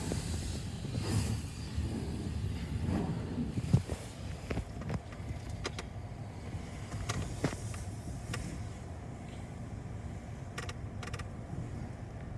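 A car's steady low rumble, with scattered light clicks.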